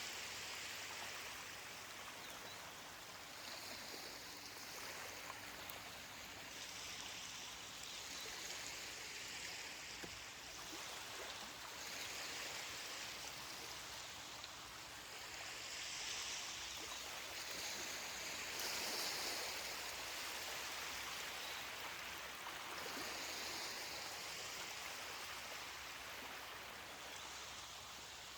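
Ocean surf washing onto a beach: a steady hiss of water that swells and fades every few seconds as the waves break and run up.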